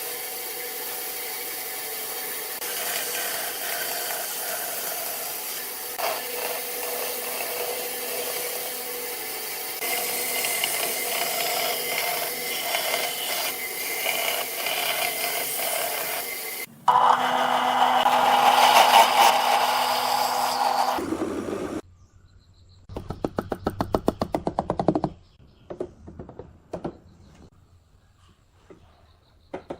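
Woodworking tools working wood in a run of separate shots: a steady machine-like noise, then a louder tool for about four seconds, then bursts of rapid clicking in the second half.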